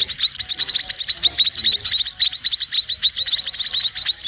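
Sparrow chicks begging for food: a rapid, continuous run of high, shrill chirps, several a second.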